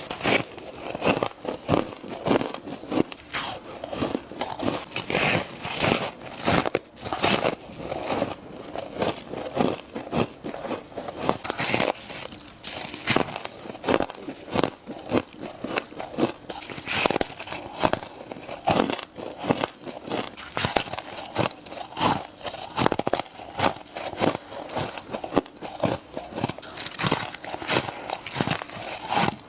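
Close-up bites into powdery frost from a humidifier, crunching and crackling in quick succession, several bites every few seconds.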